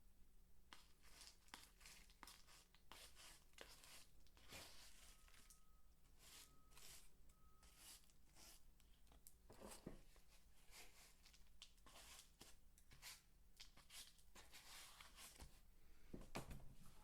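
Dry soap peelings handled up close, crunching and crackling in quick, irregular crisp clicks and rustles that start about a second in.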